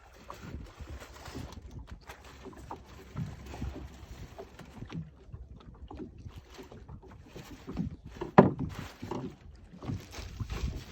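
Small aluminium fishing boat on the water: scattered light knocks and handling noise against the hull, with one loud, sharp knock about eight seconds in.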